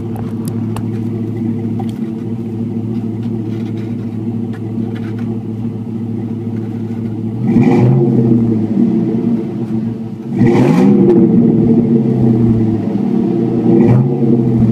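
2001 Chevrolet Silverado's 4.8-litre V8 idling through a Thrush welded muffler, then revved three times: once about halfway through, a bigger rev near three-quarters of the way, and a short blip near the end. The exhaust is loud.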